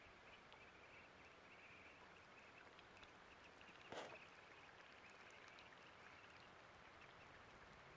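Near silence: a faint steady background hiss with one brief soft sound about four seconds in.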